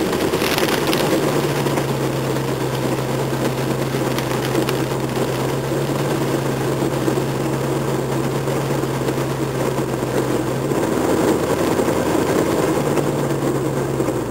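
Car engine running steadily while driving, over a constant hiss of tyre and water noise on a flooded road. The engine note drops slightly about ten seconds in and picks up again near the end.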